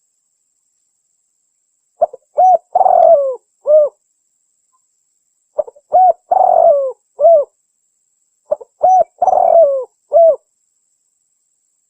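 Spotted dove (tekukur) cooing: three repeats of its short phrase of a few quick notes, one longer rolling coo and a final coo, a couple of seconds apart. It is a recorded lure call, said to be a female calling to a male.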